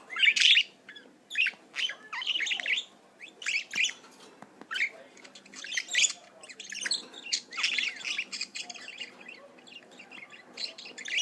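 Pet budgerigar chattering: an irregular run of short high chirps and squawks, with denser bursts of calls every few seconds.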